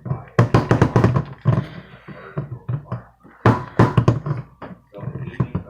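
Hard pieces of mothball knocking and rattling in quick clusters of clicks, one burst in the first second and a half and another past the middle.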